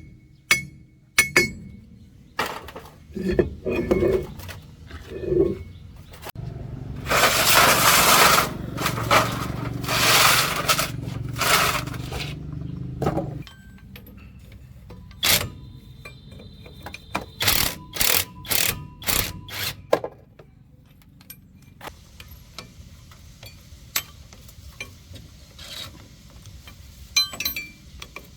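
Workshop tool work on metal truck parts: scattered metal clinks and knocks, a loud noisy stretch of several seconds in the middle, then a run of sharp clicks.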